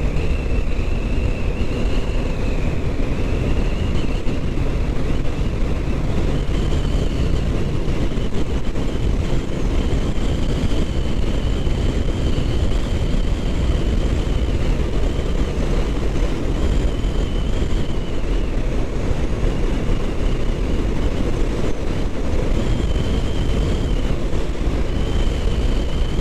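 Kawasaki Ninja 650's parallel-twin engine running while riding, under heavy wind rush on the microphone, with a thin high whine wavering slightly above it.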